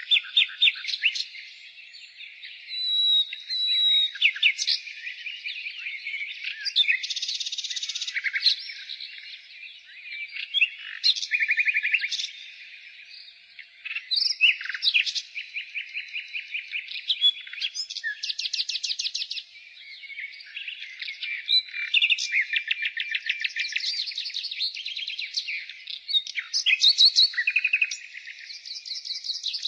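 Nightingale singing, one varied phrase after another: fast runs of rapidly repeated notes mixed with short whistles and trills, with hardly a pause.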